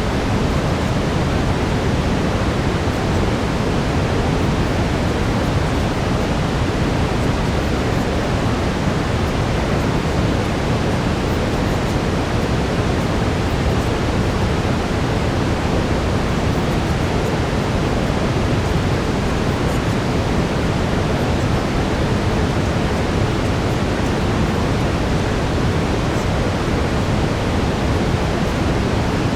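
Steady brown noise: an even, unchanging rushing hiss, heaviest in the low end, like a distant waterfall.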